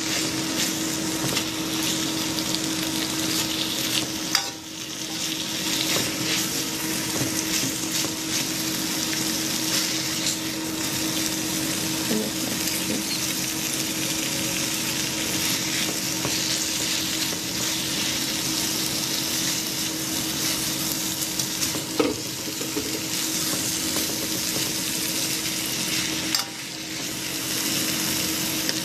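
Chicken fajita filling with cheese frying in a pan: a steady sizzling hiss, with a few sharp knocks and a steady low hum underneath.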